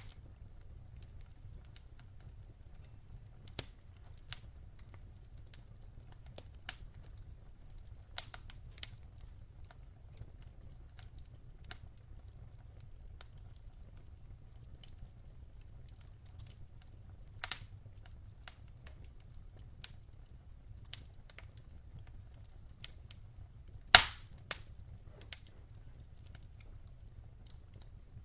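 Campfire crackling: burning wood giving off irregular sharp pops and snaps, with a louder pop about four seconds before the end, over a low steady rumble.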